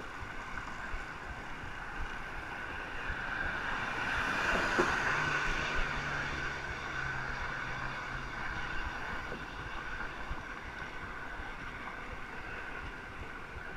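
Wind rushing over the microphone and road noise while riding a bicycle, swelling about four to five seconds in, with a low steady hum for a few seconds after.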